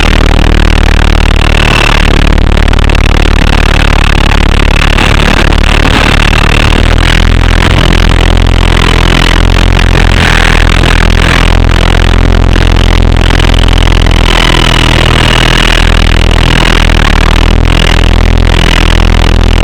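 Double Horse 9118 R/C helicopter's electric motors whining steadily with heavy wind buffeting, loud and distorted, as picked up by the camera mounted on the flying helicopter.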